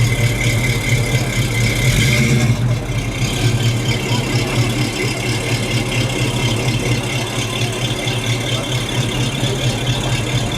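Car engine idling with a steady low rumble and some rattle, plus a steady high tone that stops about two and a half seconds in.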